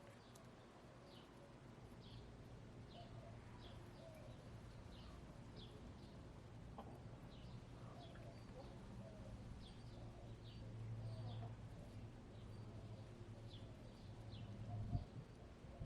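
A wild songbird repeating short, falling high chirps, about one to two a second, over soft low clucking from hens and a faint steady low hum.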